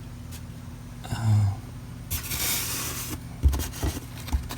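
Small objects being handled: about a second of rustling, then several light knocks and clicks, over a steady electrical hum. A short low hum of a voice comes about a second in.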